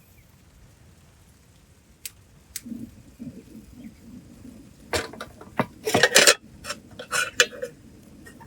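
Handling noises: two sharp clicks about two seconds in, a few soft knocks, then a burst of clicks, knocks and rustles in the second half.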